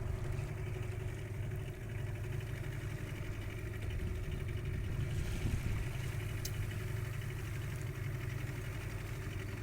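Boat engine running at a steady idle-like hum, low and even.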